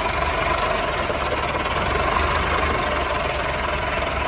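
Heavy diesel engine of farm machinery running steadily, with a low, fast pulse underneath.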